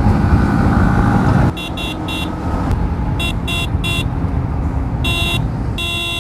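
Road traffic and engine noise, heavy for the first second and a half, then a vehicle horn honked again and again in quick bursts of about three short toots, with a longer blast near the end.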